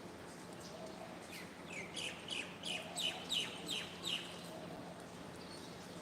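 A bird chirping: a quick run of about eight short, falling chirps, about three a second, starting about a second and a half in.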